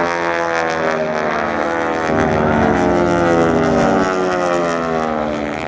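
Radial piston engines of the Aeroshell team's North American T-6 Texans running at power in a formation pass. They grow louder around the middle, and their pitch bends as the planes go by.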